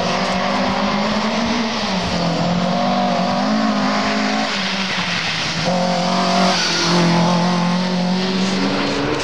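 Rally car's engine revving hard on a gravel stage, its pitch climbing and dropping several times as the driver works the throttle and gears, over the rushing noise of tyres on loose gravel.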